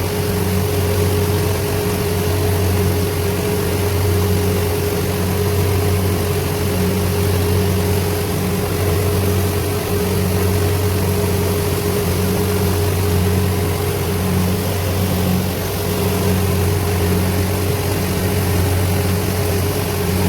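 Diesel engine of a farm machine running steadily at constant speed, a continuous low drone with a steady hum.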